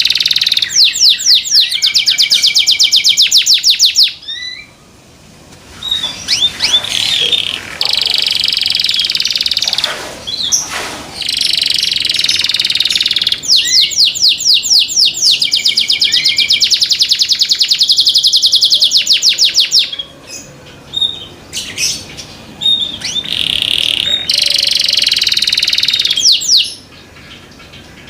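Canary singing loud song phrases built of fast, evenly repeated trills, in three long bursts with short pauses between.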